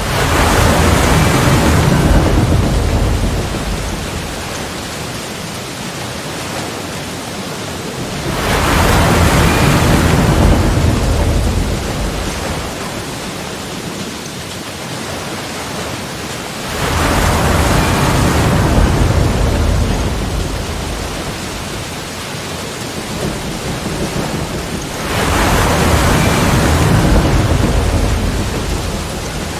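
Sea waves breaking and washing in, four swells about eight seconds apart, each rising quickly, lasting a few seconds and fading back into a steady wash of surf.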